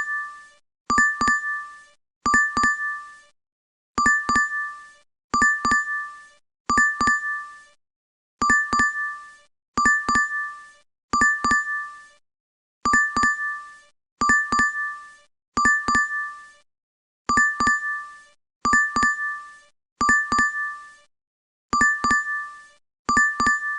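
DoorDash app notification chime repeating over and over: a quick double ding, once about every second and a half.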